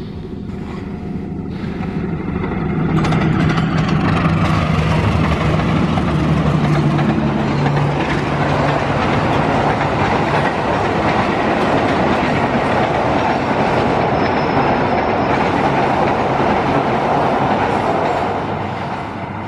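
A passenger train hauled by a diesel locomotive passes close by. The locomotive's engine hum comes up about two seconds in, then the steady rumble and clatter of the carriages' wheels on the rails, easing off near the end.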